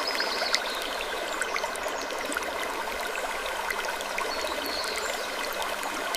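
Running water trickling and babbling steadily: a dense, even wash of small splashes and ticks with no pauses.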